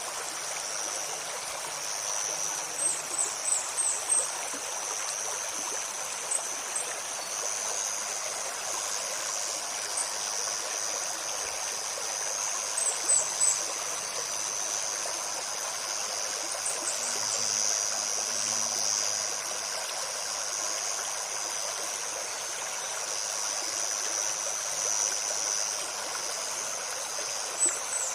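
Shallow forest stream flowing steadily over stones. Above it run a steady high insect drone and, several times, quick clusters of short, very high bird chirps.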